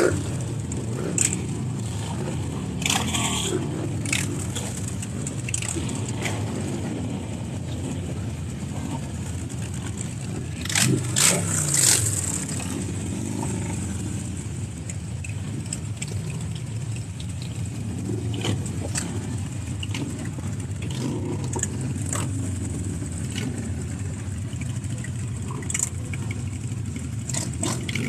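Car engines running, with a few scattered knocks and a louder rising-and-falling engine note about eleven seconds in.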